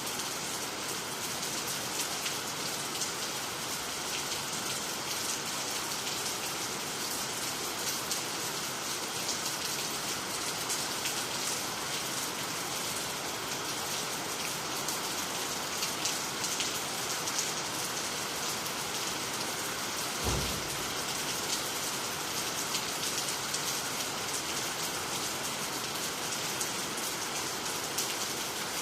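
Steady rain falling, with the patter of individual drops. A brief low thump comes about twenty seconds in.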